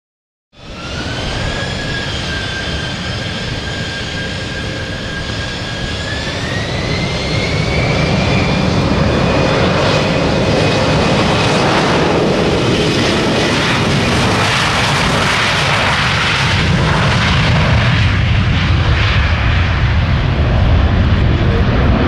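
Sukhoi Superjet 100 jet airliner's two SaM146 turbofans spooling up for takeoff. A steady engine whine rises in pitch about six seconds in, and a growing, loud roar builds and holds as the aircraft goes to takeoff power.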